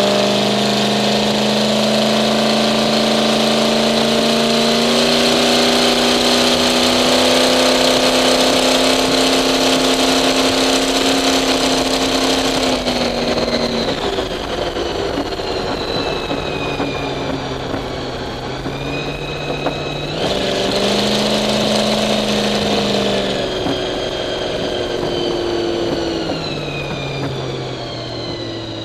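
Supercharged engine of a 1951 Henry J gasser running hard, its pitch climbing slowly, then dropping in steps a few times in the second half. A high whine falls away as the revs come down.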